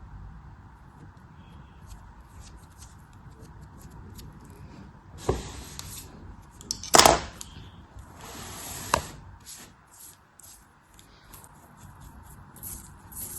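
A blade cutting and scraping through crumbly material, with faint crackles throughout. Two longer hissing cuts come near the middle, each ending in a sharp click, with a loud sharp tap between them.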